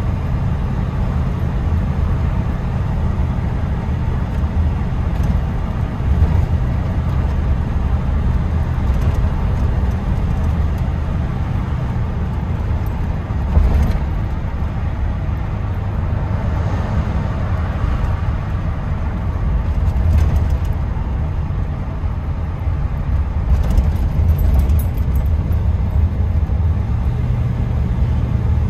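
Steady in-cab road noise of a 1979 Chevy K10 pickup cruising: a low engine and exhaust drone from its 400 small-block V8, mixed with tire noise. A few brief knocks sound partway through.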